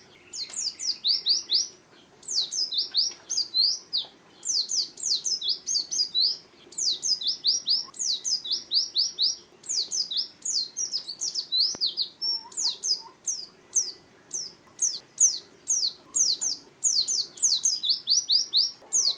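White-eye (pleci) singing a fast, chattering song: quick runs of high, sharply down-slurred notes that repeat several times a second, broken by short pauses between phrases.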